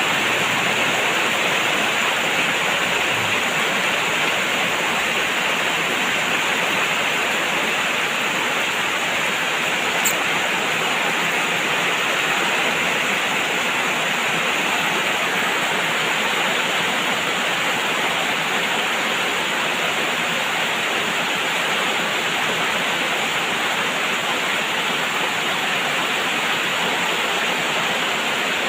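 Heavy rain falling steadily, an even hiss with no let-up. A single short click about ten seconds in.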